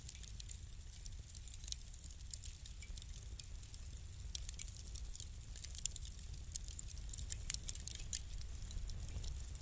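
Wood fire crackling in a fireplace: many small irregular pops and snaps over a low steady rumble, denser and sharper in the second half.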